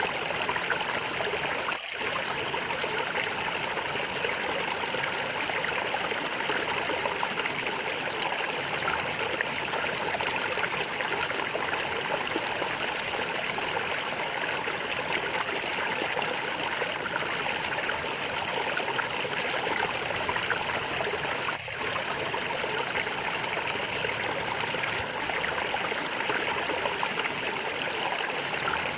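Water flowing and gurgling steadily in a small stream.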